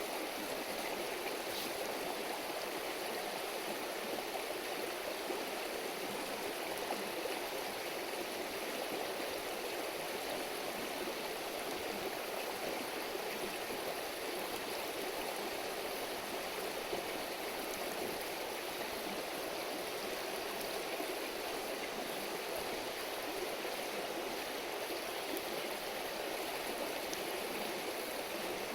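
A river babbling steadily over stones, an even rushing of water.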